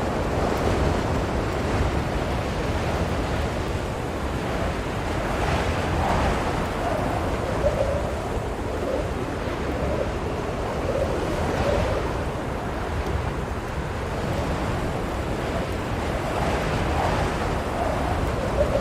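Blizzard wind blowing steadily with a deep rumble and a faint wavering howl, swelling in gusts every five or six seconds.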